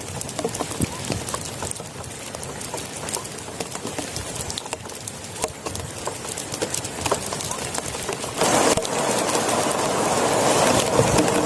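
Heavy rain pattering on a plastic tarp, a dense run of sharp irregular drop ticks over a steady hiss. About eight seconds in, it suddenly grows louder and denser.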